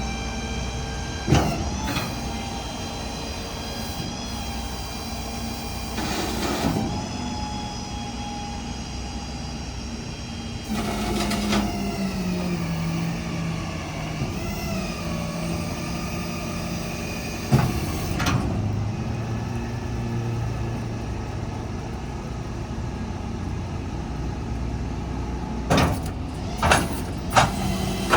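Ford F550's 6.7 L Power Stroke V8 turbo-diesel running steadily, its pitch settling lower about eleven seconds in, with several short clunks and knocks scattered through.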